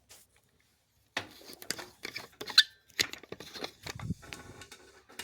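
Handling noise as objects are moved about on a tabletop: a busy run of clicks, knocks and rustles starting about a second in, with one sharp click near the middle.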